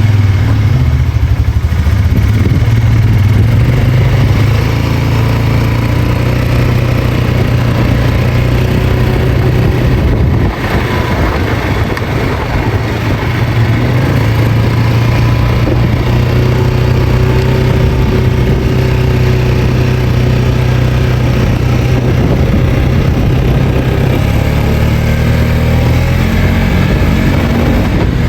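2022 Polaris Sportsman 450 HO ATV's single-cylinder engine running steadily, with a short drop in level about ten seconds in.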